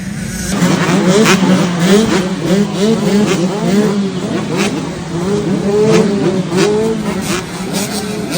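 A pack of motocross dirt bikes revving hard together through their gears, with several overlapping engine notes climbing and dropping back. It starts suddenly about half a second in.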